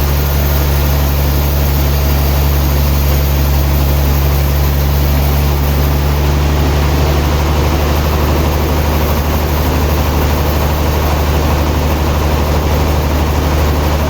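Sawmill machinery running steadily: a loud, unchanging low engine hum with a constant mechanical noise over it.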